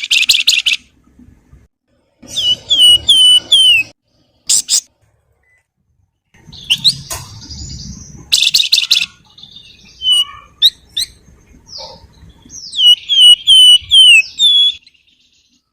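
Javan fulvetta (wergan Jawa, kept as 'flamboyan') singing. A fast buzzy trill is followed by phrases of three or four sharp down-slurred whistled notes, with scattered chips and a burst of chattering between them.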